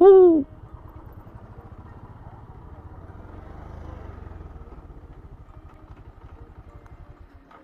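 Motorcycle engine running steadily while riding, an even low pulse of firing strokes, which drops away near the end. A short voice call sounds at the very start.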